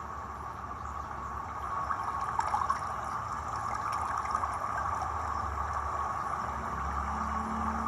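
Running water, a steady rushing flow with a few small splashes about two and a half seconds in.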